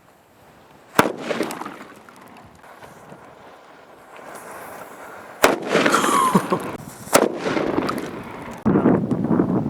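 M80 firecrackers going off: three sharp bangs, one about a second in and two more later, a second and a half apart, each followed by a ragged noisy tail. A sudden rush of noise comes in near the end.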